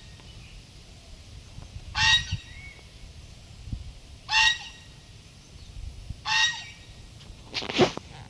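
A waterfowl calling: four short, pitched calls spaced about two seconds apart.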